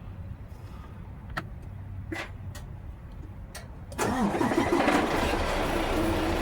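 A few sharp clicks over a low steady rumble, then about four seconds in an engine starts and settles straight into a steady idle.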